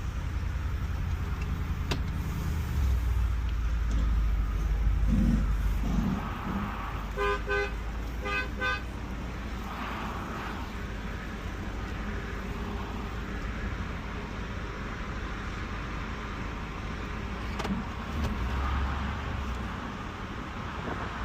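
2021 Ford F-250 Super Duty pickup's V8 engine running with a low rumble, louder for a few seconds early on. About seven seconds in, the horn gives four short toots in two quick pairs.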